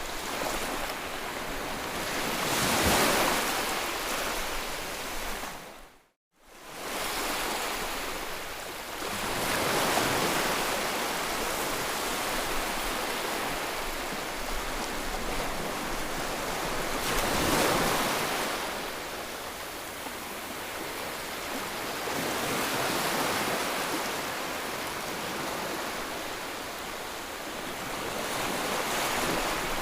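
White noise, an even hiss that swells and fades slowly about every six or seven seconds like surf. It drops out to silence for a moment about six seconds in and then fades back up.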